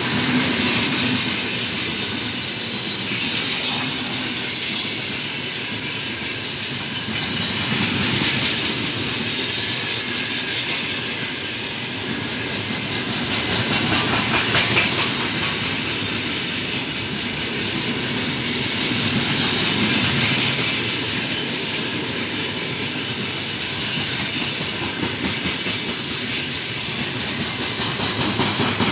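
Coal-loaded open gondola wagons of a long freight train rolling past close by: a steady rush of steel wheels on rail that swells and fades in slow waves. A stretch of rapid clicking over rail joints comes near the middle.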